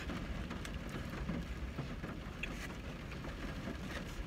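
Chewing on a mouthful of burger, with a few faint crinkles of its paper wrapper, over a steady low rumble inside a car.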